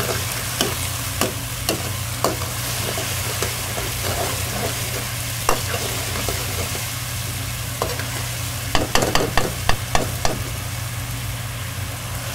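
Food sizzling steadily in hot oil while being stirred, with sharp clacks of the stirring utensil against the pan and a quick flurry of them about nine seconds in.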